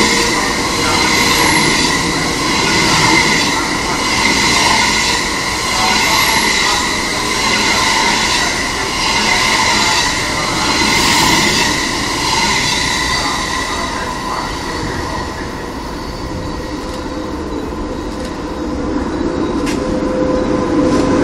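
25T passenger coaches rolling past close by, the wheel noise swelling and fading about every two seconds as each coach's wheels go by, with a steady high-pitched wheel squeal over it. Near the end the noise grows louder again as an SS8 electric locomotive approaches with a second train.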